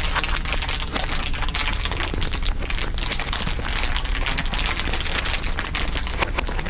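Layered ASMR crinkling: a dense, continuous crackle of many small sharp crinkles, over a steady low drone.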